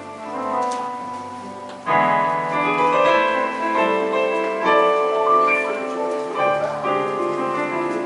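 Offertory music played on a church keyboard: sustained chords, growing clearly louder with a fuller chord about two seconds in.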